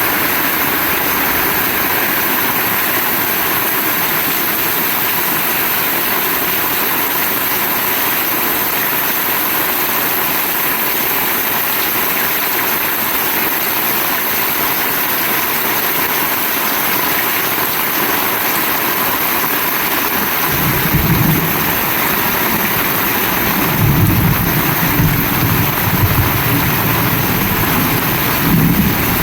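Heavy rain falling in a steady, dense hiss. From about two-thirds of the way through, irregular low rumbles join it.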